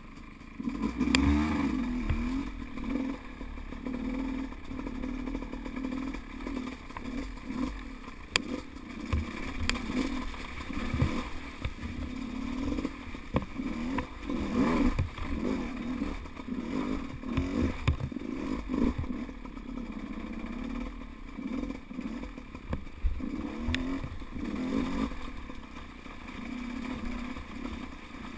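Dirt bike engine revving up and down over and over, with scattered knocks and clatter.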